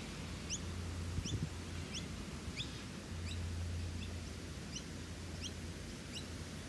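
A bird giving short, high, rising chirps, about one or two a second, over a low steady rumble.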